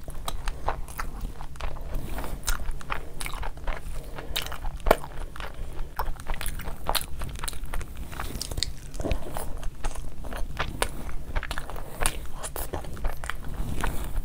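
Close-miked mouth sounds of a person biting and chewing handfuls of chicken biryani and pieces of curried chicken: a dense run of irregular clicks and crunches, with one sharper click about five seconds in.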